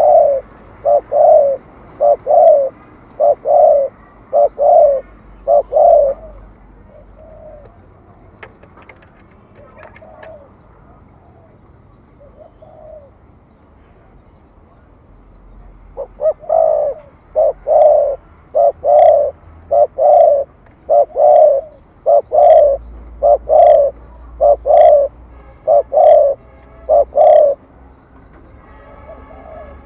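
Spotted dove cooing: a run of short, low coos for the first few seconds, a pause of about ten seconds, then a longer run of coos through most of the second half.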